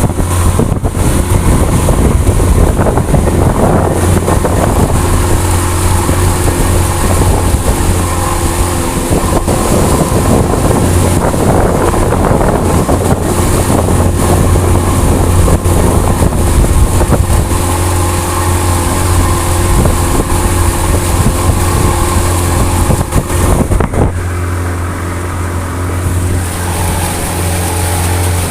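A vehicle running steadily with a low hum, and wind buffeting the microphone; it drops slightly quieter about 24 seconds in.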